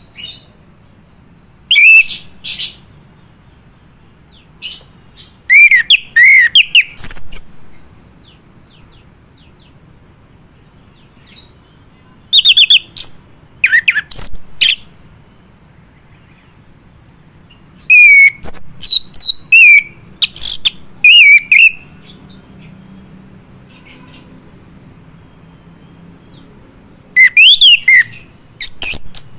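Male chestnut-capped thrush (anis kembang) singing in loud, separate phrases of rapid, sweeping whistled notes, with pauses of several seconds between phrases.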